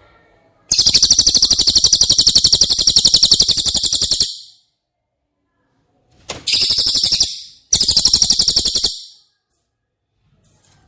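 A cililin songbird giving a very fast, rattling trill in three loud bursts: a long one of about three and a half seconds, then two short ones near the end.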